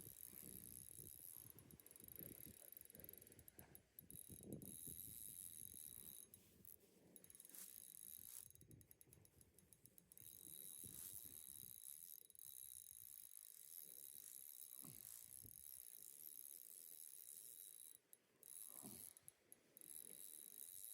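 Faint fast clicking from a fishing reel being wound, in several short runs, over a low rumble of wind.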